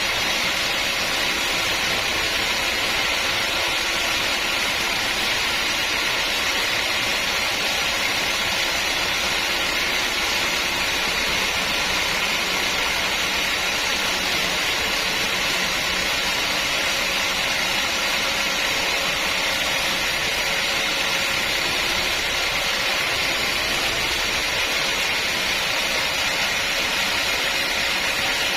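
Sawmill machinery running steadily, an even mechanical roar with a faint hum underneath and no change throughout.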